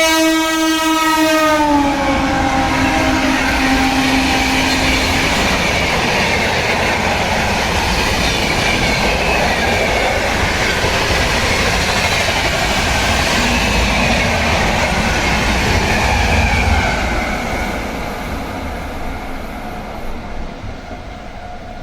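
Express train passing at speed, its horn sounding as it arrives, with the pitch dropping sharply as it goes by. The rush and rumble of the train then run on for about seventeen seconds, with some clickety-clack, and fade away near the end.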